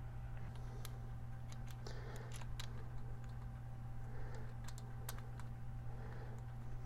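Scattered light clicks and ticks, about half a dozen, from small parts and hand tools being handled, over a steady low hum.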